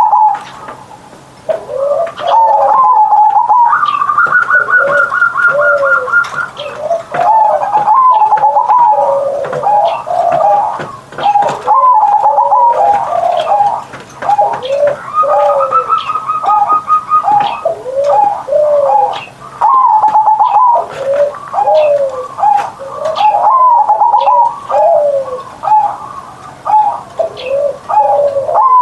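Zebra dove (perkutut) singing, cooing phrase after phrase with short pauses between. The song includes a quick run of short, even notes twice.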